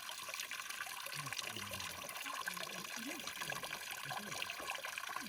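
Water running and trickling steadily, a continuous splashy hiss with faint voices underneath.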